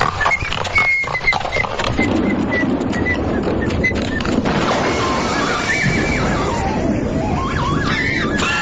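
Production-logo sound effect: a loud, dense noisy bed with a row of short high blips early on, then a horse whinnying, its pitch rising and falling, over the last few seconds.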